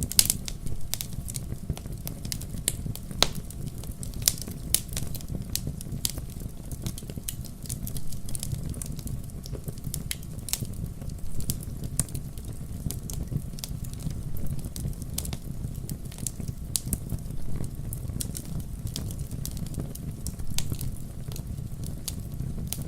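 Wood fire burning in a fireplace: a steady low rumble of flame under frequent irregular crackles and pops.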